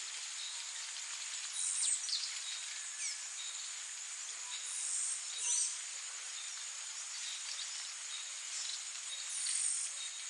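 Wild birds giving a few short, down-slurred calls, about one and a half, three, five and nine and a half seconds in, over a continuous high insect chorus.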